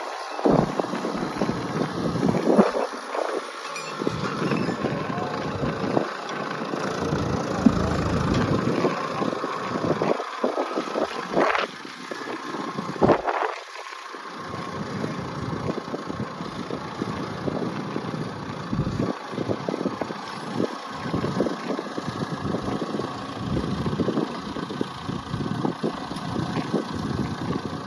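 Gusty wind buffeting the microphone over a vehicle engine running, with a couple of sharp knocks a little before halfway through.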